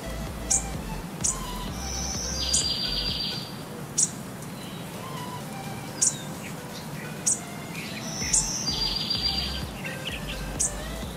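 Birdsong: short sharp high chirps every second or so and a rapid high trill that comes twice, about six seconds apart, over a low steady background.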